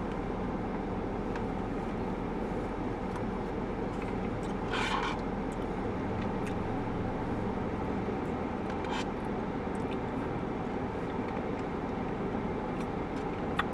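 Steady low background hum, with a few brief faint scrapes and clicks, about five seconds in, about nine seconds in and near the end, from a spoon working in a Blizzard cup.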